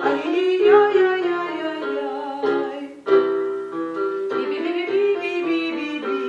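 Piano playing a vocal warm-up exercise on syllables, with a voice singing along; held notes change step by step, with a short break about three seconds in.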